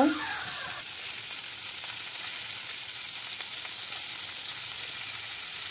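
Marinated chicken wings frying in hot cooking oil in a nonstick pan, a steady high sizzle.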